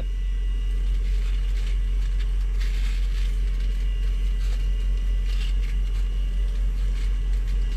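Steady low rumble of an idling truck engine heard inside the cab. Faint brief scratchy sounds come on top of it about three and five seconds in.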